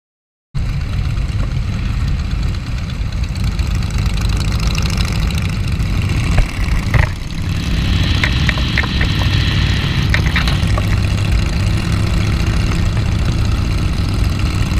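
Harley-Davidson motorcycle's V-twin engine running steadily, cutting in abruptly about half a second in, with a few sharp clicks around the middle.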